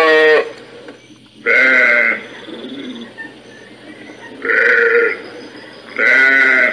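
Sheep bleating: four loud, drawn-out bleats a second or two apart.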